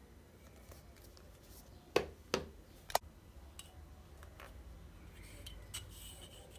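Handling of the earbuds' packaging: three sharp clicks over about a second, a couple of seconds in, then a few lighter taps and rustles.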